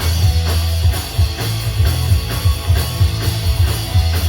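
Live punk rock band playing an instrumental stretch with distorted electric guitars, bass and a drum kit keeping a steady beat.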